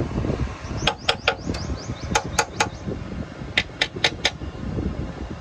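Three quick runs of sharp taps, three or four in each, over a steady low rumble.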